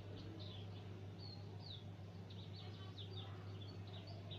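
Small birds chirping faintly, a string of short quick notes, over a steady low hum.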